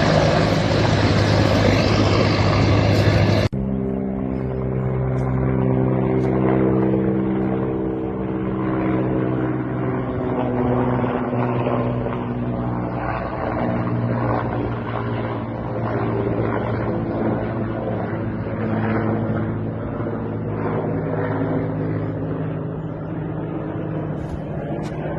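Helicopter engine and rotor noise: a loud rushing sound that cuts off abruptly about three and a half seconds in, replaced by a steadier, lower hum of several held tones.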